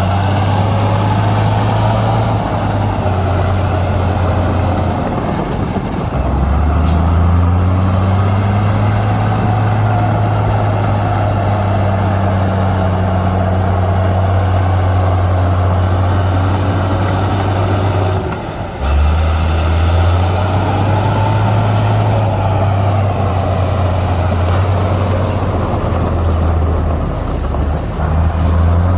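Heavy diesel engine of earthmoving machinery running hard, its revs dipping and climbing back up a few times.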